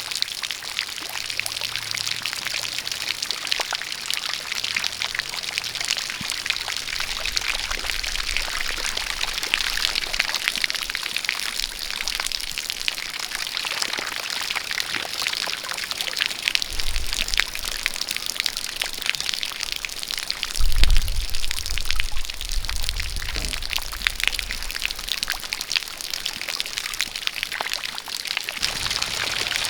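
Steady rain with a spout of water pouring and splashing, full of close drip and splash clicks. A low rumble comes in about halfway through and is loudest about two-thirds of the way in.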